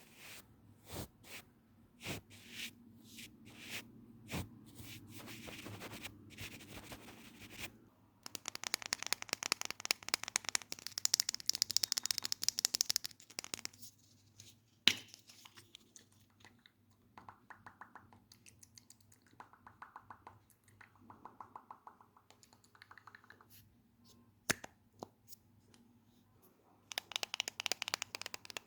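Close-miked ASMR tapping and scratching on objects. Separate taps come first, then fast, dense scratching, a single sharp click about halfway through, quieter on-and-off rubbing, and fast scratching again near the end.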